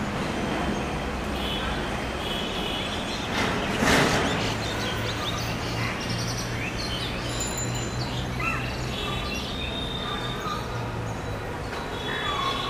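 Birds chirping over a steady low hum, with a brief loud rush of noise about four seconds in.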